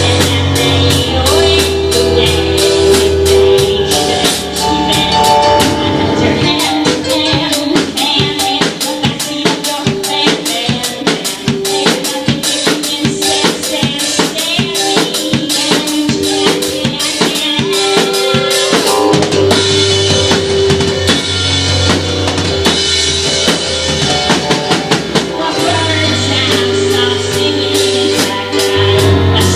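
Rock band playing an instrumental passage with no singing: fast, steady drum kit hits under sustained guitar notes. The low bass drops out about six seconds in and comes back about two-thirds of the way through.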